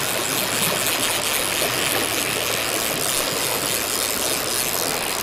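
Creek water flowing: a steady, even rushing noise.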